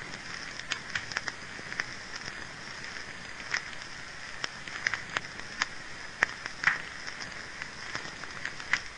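Wood fire in a fireplace crackling: irregular sharp pops and snaps over a steady hiss.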